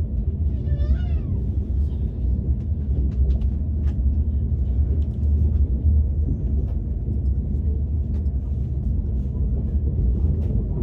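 Steady low rumble of a KTX high-speed train running, heard inside the carriage. About a second in, a single short high-pitched call rises and falls, and faint scattered ticks follow.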